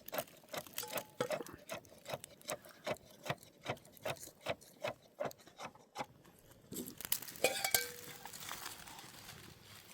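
A quick, irregular run of sharp light clicks and knocks, several a second, stopping about six seconds in. A brief clatter with a short ringing tone follows.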